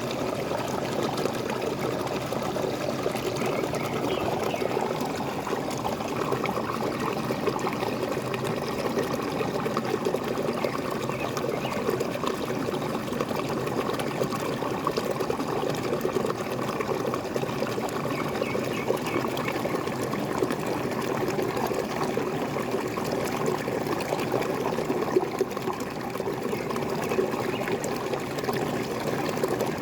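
Water falling and splashing steadily, as from a small waterfall, an even rush and trickle with no breaks.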